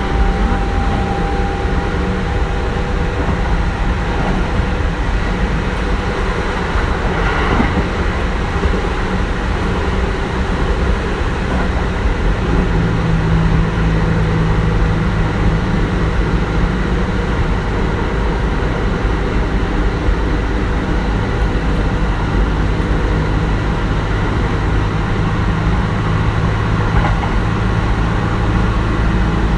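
Kintetsu 1420 series electric train running between stations: a steady rumble of wheels on rail under the tones of its Mitsubishi GTO-VVVF inverter and traction motors. A higher tone fades in the first few seconds, and a steady low hum sets in about twelve seconds in.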